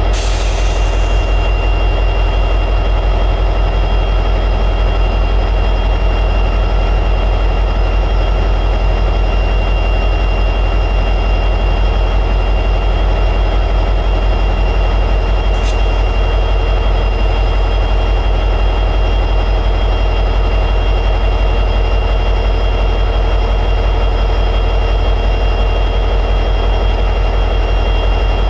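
EMD 710G3B two-stroke diesel prime mover of an SD60 locomotive running steadily in high idle. A brief hiss comes right at the start, and a single sharp click about halfway through.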